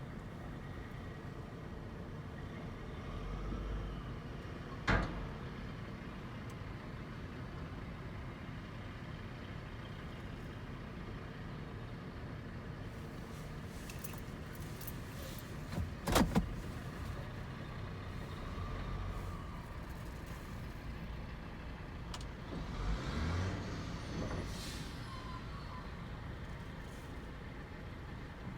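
Dump truck engine running steadily, with a couple of sharp metallic knocks and a louder stretch near the end.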